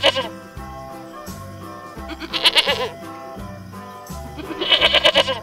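Goat bleating: the end of one quavering bleat right at the start, another about two and a half seconds in, and a third near the end, over background music.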